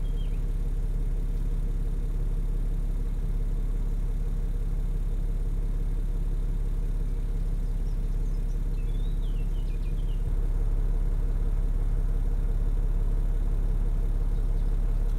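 BMW E70 engine idling steadily, an even low hum that gets slightly louder about two-thirds of the way through.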